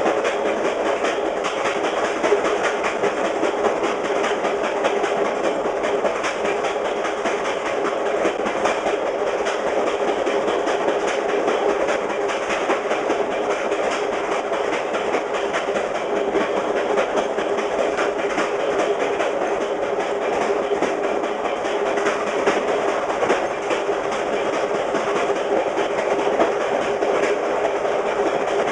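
VIA Rail passenger train running fast on jointed rail: wheels clicking over the rail joints over a steady rumble and rush, heard from the rear of the train.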